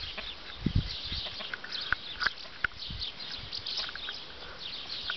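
Birds chirping over and over in short high notes, with a few sharper single chirps about two seconds in, and a couple of dull low thumps just under a second in.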